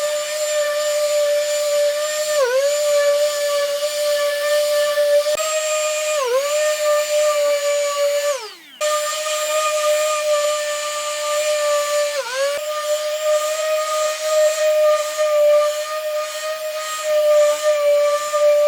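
Power tool motor whining steadily at high speed, its pitch sagging briefly three times as it is pressed into the work. About halfway through it winds down and cuts out for a moment, then is running again at full speed.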